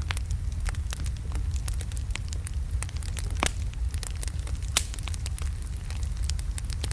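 Burning wood logs crackling in a fireplace: a steady low rumble of the fire under many small irregular crackles, with two louder pops in the middle.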